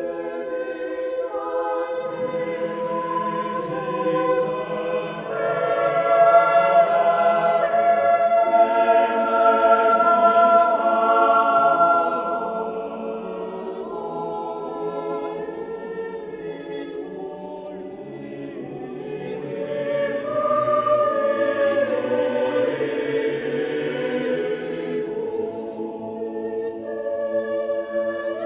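Choral music: voices singing long held chords, swelling louder twice.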